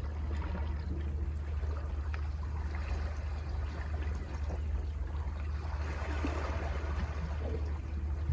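Sea waves washing and trickling over rocks below a cliff, over a steady low rumble; the wash swells and grows fuller about three-quarters of the way through.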